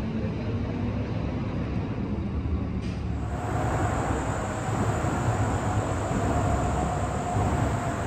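A train rumbling past, with a steady high tone joining about three seconds in.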